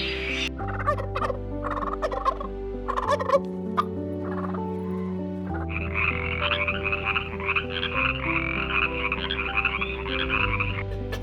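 Animal calls over soft background music: a few short calls in the first few seconds, then a continuous, rapidly pulsing call lasting about five seconds that stops just before the end.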